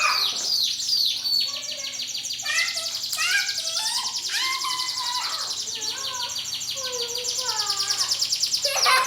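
Canaries singing: fast high trills over many short falling whistled notes, with several birds overlapping throughout.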